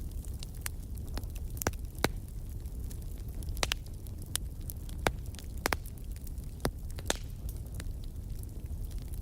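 Wood fire in a fireplace crackling, with irregular sharp pops every fraction of a second over a low steady rumble.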